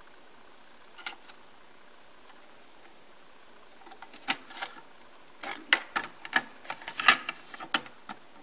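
Cassette deck handled by hand: a couple of switch clicks about a second in, then from about four seconds in a rapid run of sharp plastic clicks and clatter as the cassette door is worked and a cassette is handled in the tape well.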